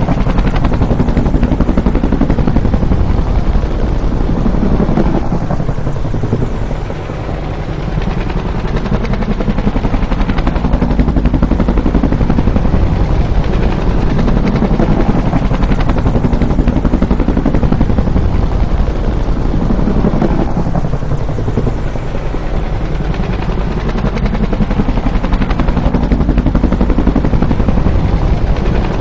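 Bell UH-1 Huey helicopter running with the rapid, steady beat of its two-bladed main rotor and a turbine engine underneath. The level swells and eases twice, dipping a little about a quarter of the way in and again about two-thirds in.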